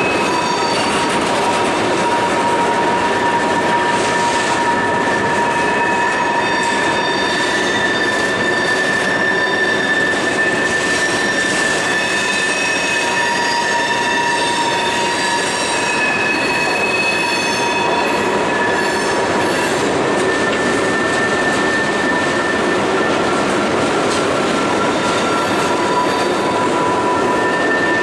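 Freight cars (covered hoppers, then tank cars) rolling steadily over a steel railroad bridge. Their wheels make a continuous high squeal of several tones over the rumble, some tones fading in and out.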